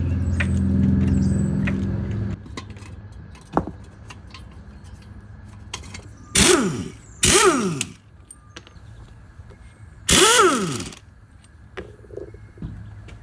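Three short bursts from a power impact wrench, each under a second with a pitch that sweeps up and then winds down, as used to break loose and spin off wheel lug nuts for a brake job. A steady low hum stops about two seconds in, and there is a single click in between.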